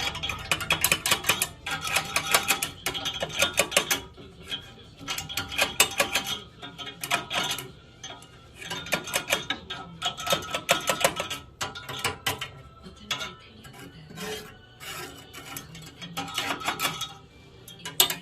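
Repeated bursts of rapid clattering and rattling, each lasting a second or two with short quieter gaps between them, like hard objects being handled and knocked together.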